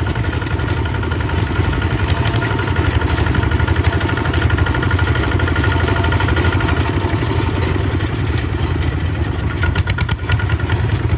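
Tractor engine running steadily with a fast, even chugging pulse, with a brief patch of rattling near the end.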